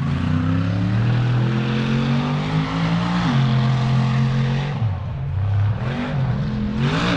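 Truck engine running hard at steady revs, dropping a little about three seconds in, then revved up and down several times near the end.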